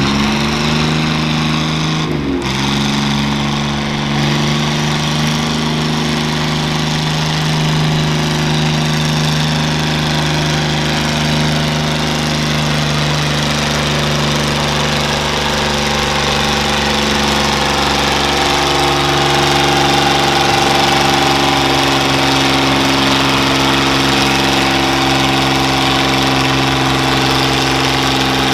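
Pulling tractor's engine running hard under load down the track. Its note dips briefly about two seconds in, then holds steady, and climbs in pitch and loudness past the middle as the throttle is opened further.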